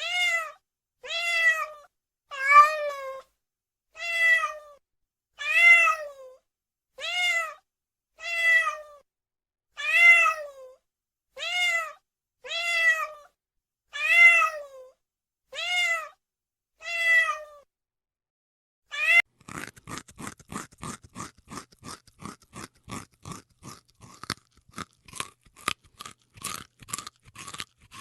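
A domestic cat meowing over and over, one call about every second and a half, each call rising then falling in pitch. From about 19 seconds in, the meows stop and give way to rapid crunching, like small bites of dry food being chewed, several clicks a second.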